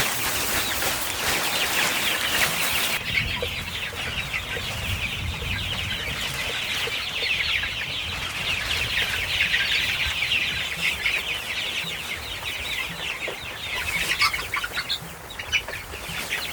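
A flock of young native chickens peeping together, many high, short chirps overlapping without pause.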